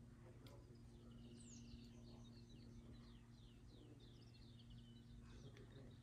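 Faint birdsong: small songbirds giving quick series of chirps and short falling notes, over a low steady hum.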